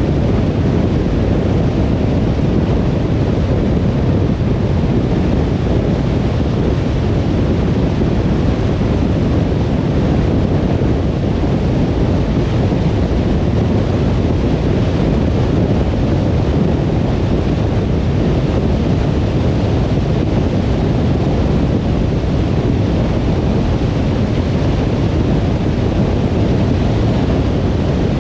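Steady low rumble of a car driving: tyre and wind noise without a break or change.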